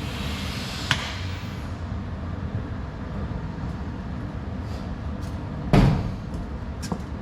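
Metal knocks during truck rear-brake work over a steady low rumble: a short hiss and a click near the start, a few light taps, and one loud clank about six seconds in.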